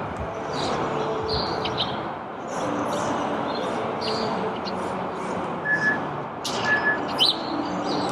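Small birds chirping repeatedly, with two short whistled notes about six and seven seconds in, over steady background noise.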